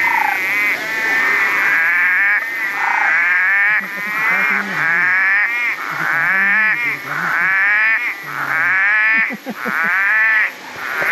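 A chorus of many frogs calling over one another, the higher calls repeating about once a second, with short deeper croaks underneath.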